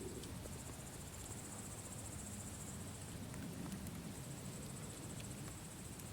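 Campfire burning with a low rumble and a few faint crackles, under a steady, high, rapidly pulsing chirr of night insects.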